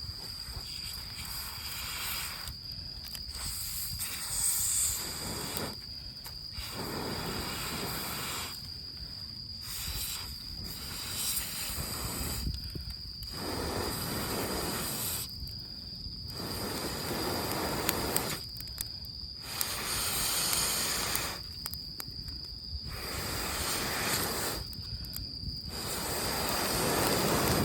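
Long, steady blows through a fire-blowing pipe onto smouldering embers in damp firewood, repeated about every three seconds with a short pause for breath between blows and growing louder toward the end. Insects keep up a steady high trill.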